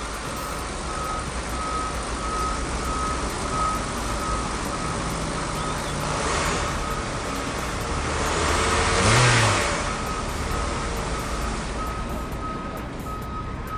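A truck engine running steadily, with a faint beep repeating about twice a second, and a louder swell about nine seconds in.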